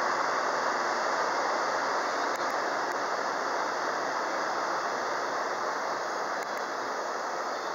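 A JR 113 series electric train pulling away from the platform: a steady rumble and hiss of the moving train that fades slowly as it leaves, with a few faint clicks from the wheels.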